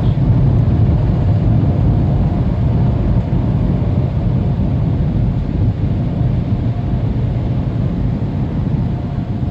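PDQ car-wash Max Dry blowers blasting air over the car, heard from inside the cabin: a loud, steady rush with a deep rumble and a faint steady whine, like an airplane.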